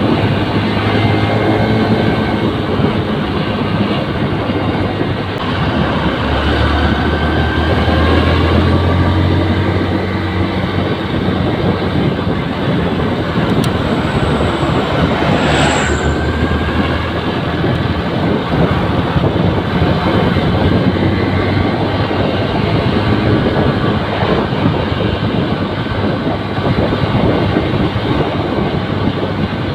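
Honda New Megapro motorcycle's single-cylinder engine running as it is ridden, mixed with wind and road noise. The engine note swells for a few seconds early on. A brief high-pitched sound comes about halfway through.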